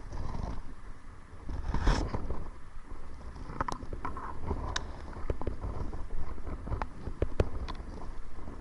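Kayak paddling: the paddle swishing through the water, with sharp clicks and knocks of the paddle and gear on the kayak, over a low wind rumble on the microphone.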